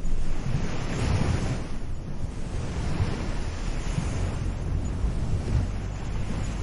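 Waves breaking and washing up a beach, with a swell of surf hiss about a second in, over wind rumbling on the microphone.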